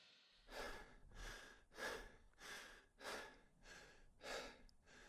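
A man panting hard, out of breath from exertion, about eight quick breaths in and out in a steady rhythm, starting about half a second in.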